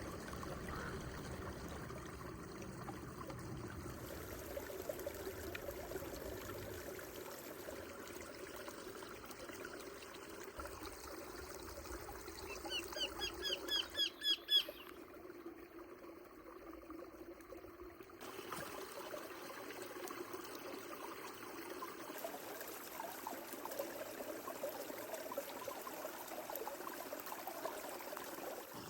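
Creek water trickling and flowing steadily. About halfway through, a bird gives a quick run of about eight calls that grow louder.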